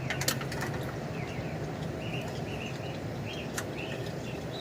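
Small birds chirping intermittently in the background over a steady low hum, with a few light clicks, one about a quarter second in and one near the end.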